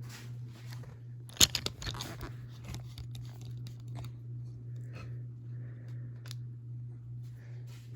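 A 2004 Harbor Breeze Ocracoke ceiling fan running, most likely on high speed, with a steady low motor hum. A quick burst of sharp clicks and crackles comes about a second and a half in.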